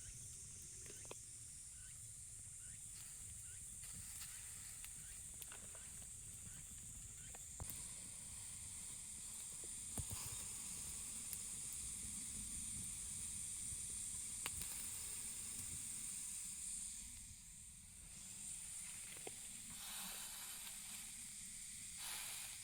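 A steady high-pitched hiss with a low rumble beneath it and scattered small clicks and taps.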